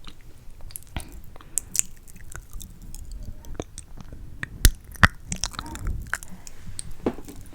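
Close-miked ASMR mouth sounds: a scattered run of wet clicks and smacks, with two sharper, louder ones in quick succession a little past the middle.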